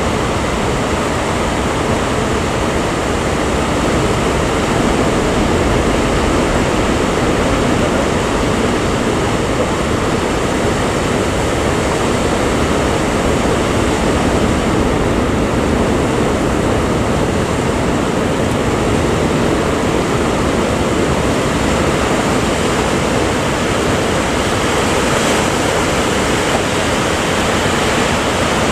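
Steady, loud rushing of sea surf and wind, without clear wave-by-wave surges.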